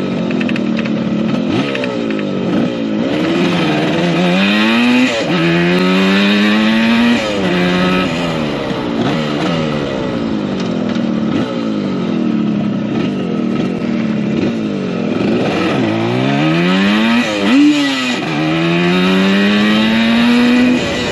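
1975 Yamaha RD200's two-stroke twin engine being ridden and accelerated through the gears. Twice the pitch climbs, drops at a gear change and climbs again, with steadier running at lower revs in between.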